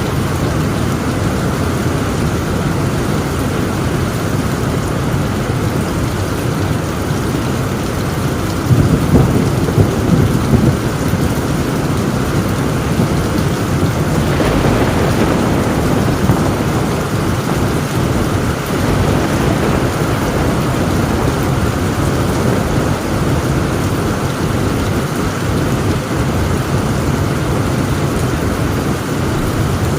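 Heavy rain drumming steadily on a tin roof, with a roll of thunder rumbling about nine seconds in and lasting a couple of seconds.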